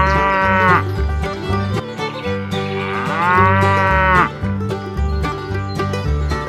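Cow mooing twice, each a drawn-out call that rises and falls in pitch: the first ends just under a second in, the second runs from about two and a half to four seconds in. Underneath runs background music with a steady plucked rhythm and bass notes.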